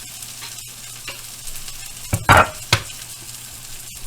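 Burger patties frying in a pan with a steady sizzle. A little past two seconds in come two loud clunks about half a second apart.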